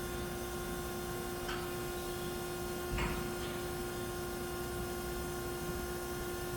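Hyd-Mech V-20 vertical band saw running: a steady electric hum with two light clicks about a second and a half apart.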